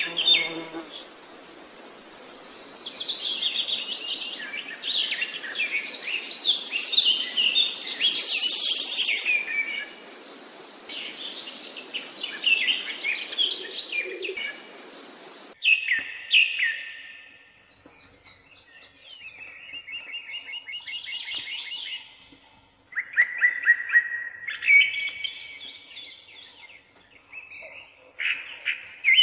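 Yellow-vented bulbuls chirping and calling in quick, busy phrases over a steady hiss. About halfway through the hiss cuts off abruptly, and shorter bursts of chirping follow.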